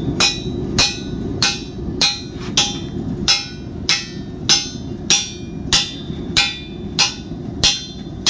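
Steady, even hammer blows on a steel tomahawk drift, driving it through the hot eye of a forged tomahawk head on a drifting jig: about fourteen ringing metallic strikes, one every 0.6 seconds or so, over a constant low rumble.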